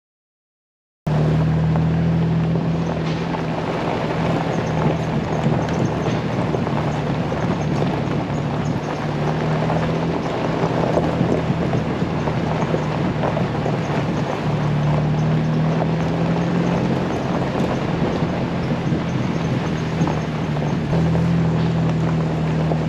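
Jeep Wrangler driving, its engine running steadily under road and wind noise; the sound cuts in after a brief silence about a second in.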